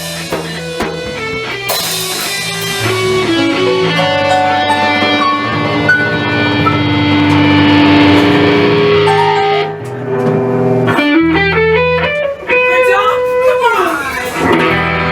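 Guitar music: an electric guitar playing held notes over a steady bass line, with notes sliding up and then back down in pitch near the end.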